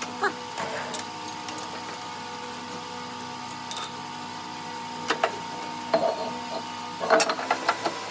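A machine running with a steady hum, with scattered light clicks and knocks of metal handling, most of them clustered near the end.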